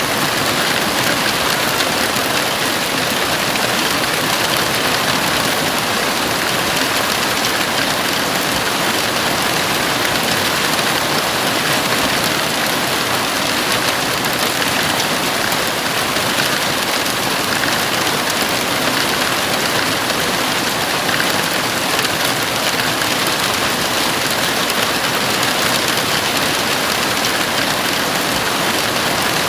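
Heavy rain falling steadily on a house roof, a dense, even hiss with no letup.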